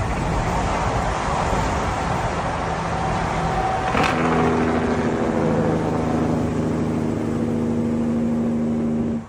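Diesel truck sound: a dense rushing noise, then a sharp click about four seconds in, followed by a steady drone with several pitches that cuts off near the end.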